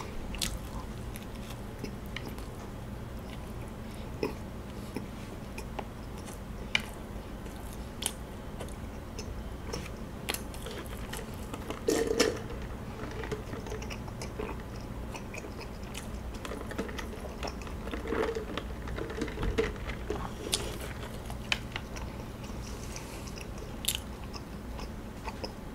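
Close mouth sounds of chewing and biting into kaya toast, with scattered small crunches and clicks. About twelve seconds in, a brief louder sip of iced coffee through a straw.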